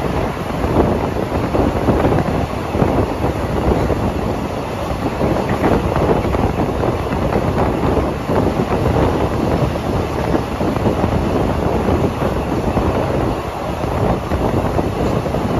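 Passenger train coach running along the track: a steady rumble and rattle of wheels on rails with rushing air noise.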